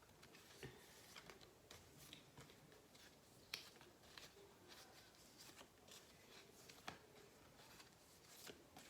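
Faint, irregular rustles and soft clicks of paper flashcards being flipped over one after another, in an otherwise quiet small room.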